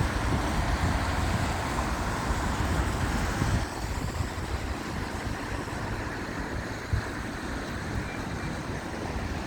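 Steady outdoor rumble of wind buffeting the microphone mixed with road traffic, easing slightly about four seconds in.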